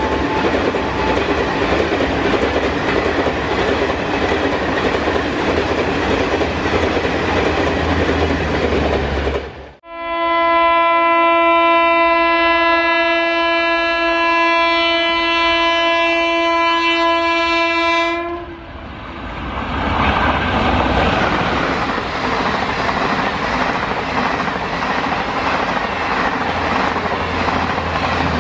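An express train of ICF passenger coaches hauled by an electric locomotive passes at speed, a steady roar of wheels on rail. After a cut about ten seconds in, an electric locomotive sounds one long, steady horn note for about eight seconds. Then another express rushes past at close range with the same roar of wheels.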